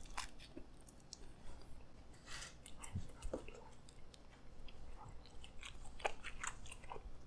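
A person chewing a bite of plain pizza crust: soft, irregular mouth clicks and crackles.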